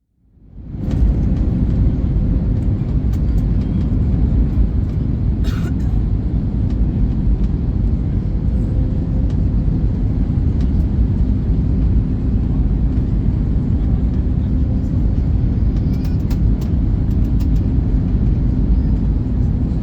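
Airbus A321neo cabin noise during the landing approach: a steady loud low rush of airflow and engines, fading in over the first second, with a faint steady hum and a few faint clicks.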